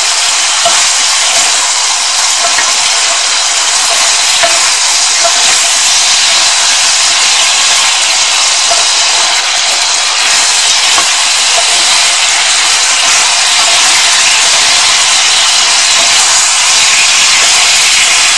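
Chicken bones frying hard in hot oil in a pan over high heat: a loud, steady sizzle.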